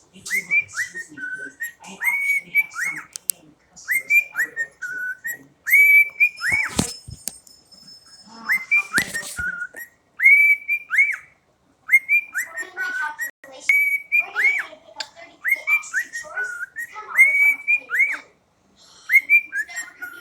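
Cockatiel whistling the same short phrase over and over: clear notes that swoop up and drop away, in bursts every second or two. A few short knocks come in around the middle.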